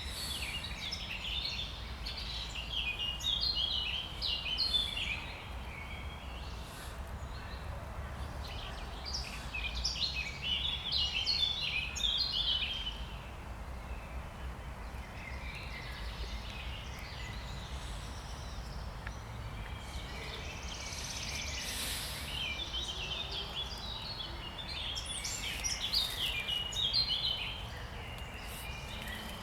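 Songbirds singing in spring: several bouts of quick, twittering song separated by short pauses, over a steady low rumble.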